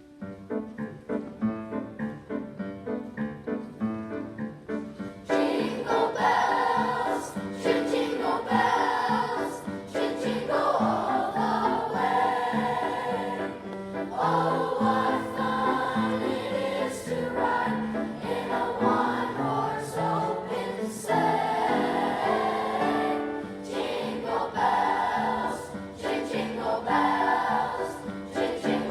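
A school choir singing with musical accompaniment. The first five seconds or so are an instrumental introduction of evenly struck notes, then the voices come in, much louder.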